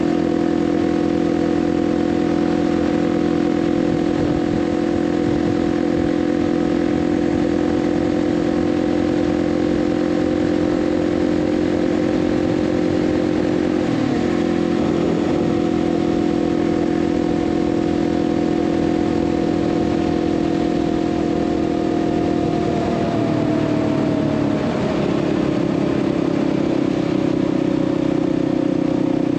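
Kawasaki KLX300's single-cylinder four-stroke engine running steadily at highway cruising speed, with wind and road noise. About two-thirds of the way through, the engine note falls gradually as the bike slows, then holds steady at the lower pitch.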